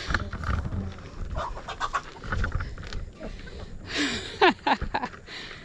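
Low rumbling noise throughout, with a few short, loud, falling animal calls about four seconds in.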